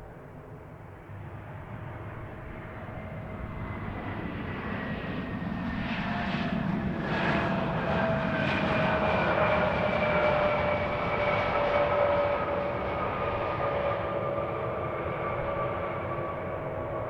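Embraer ERJ-170 regional jet's turbofan engines passing on its landing run. The engine noise swells to a peak about ten seconds in and then fades, with a whine that falls slowly in pitch as it goes by.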